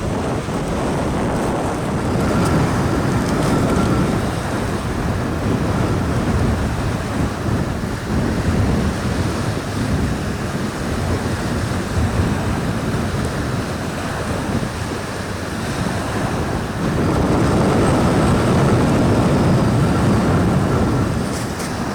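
Strong gusty wind buffeting the microphone, over small waves breaking and splashing on a river shore. A stronger gust swells up about three-quarters of the way through.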